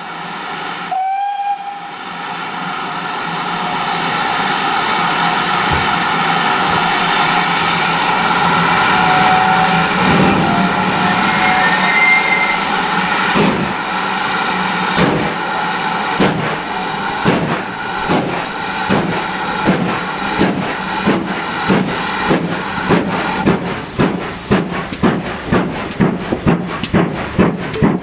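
Steam locomotive getting away: a short whistle about a second in, then steady hissing steam, then exhaust beats starting about ten seconds in and quickening as it gathers speed.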